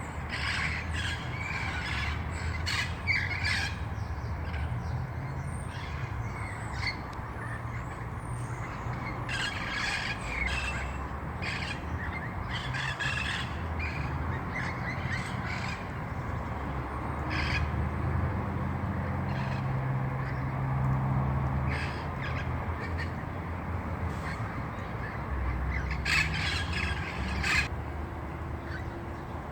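A flock of red-crowned Amazon parrots giving harsh, raspy squawking calls again and again, several at a time, with bursts of calling at the start, about ten seconds in and near the end. A steady low rumble runs underneath.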